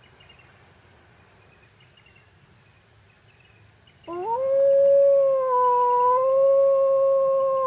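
Faint chirping in the background, then about four seconds in a single long animal howl starts. It rises quickly, holds an almost steady pitch and sags a little as it fades.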